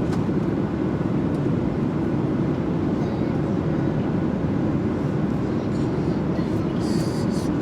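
Airliner cabin noise in flight: the steady, low, even noise of the engines and airflow heard from inside the cabin, with a short hiss near the end.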